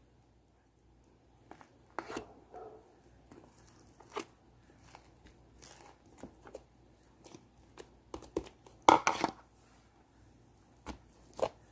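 Shaving-foam slime being worked by hand, giving irregular sticky crackles and pops. It starts after a second or so of near quiet, and the loudest cluster of pops comes about nine seconds in.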